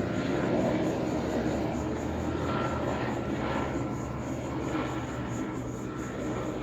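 Jet airliner's engines running steadily and slowly fading as it moves away, with a faint high whine over the rumble.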